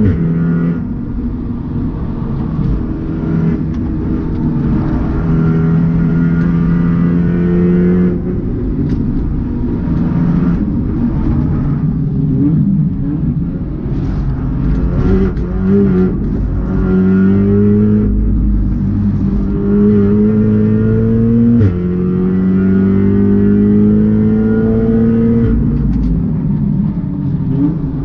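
Stage 3 tuned Audi S3 8V's turbocharged EA888 four-cylinder engine under hard acceleration on a sprint run. The revs climb and drop abruptly at each gear change, about 8 seconds in and again about 22 seconds in. In the middle the revs fall and rise unevenly, with a few short sharp cracks.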